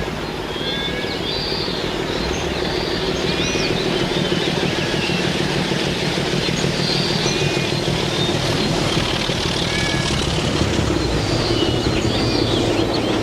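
A train approaching, its low rumble growing slowly louder, with birds chirping throughout.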